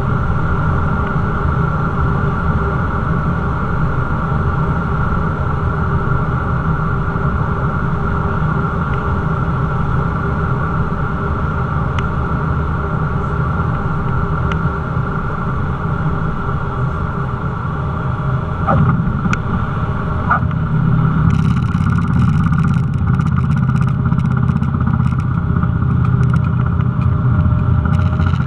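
Cessna 172's piston engine and propeller running with a steady drone and constant tones. It grows louder and rougher about two-thirds of the way through, with a couple of faint clicks.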